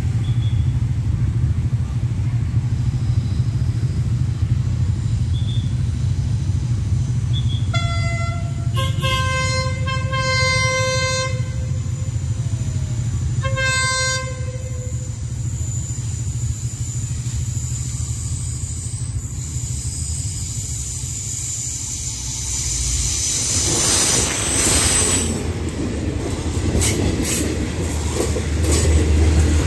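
Horn of an SRT CSR Qishuyan (QSY) diesel-electric locomotive sounding a chord: a group of blasts about eight seconds in, one of them long, and another short blast about fourteen seconds in. Later the train passes close, its engine and wheels rising to a loud rush with sharp clacks of the wheels on the rails.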